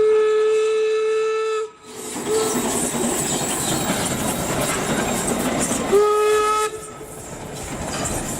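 Steam locomotive whistle: a long steady blast of about a second and a half, a brief toot, then a loud hiss of steam, and a second blast of under a second about six seconds in.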